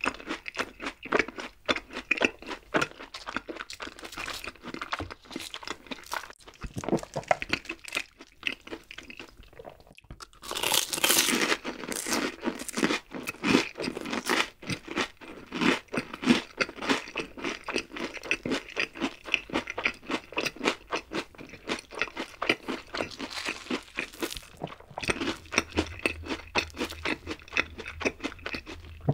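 Close-miked chewing of crisp fried food: rapid, steady crunching, with a louder, crisper stretch of crunching about ten seconds in.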